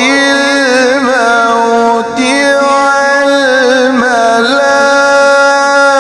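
Solo male Quran recitation in the mujawwad style, the reciter chanting 'ghamarāti l-mawt' in long held notes with wavering ornaments. There is a short break for breath about two seconds in.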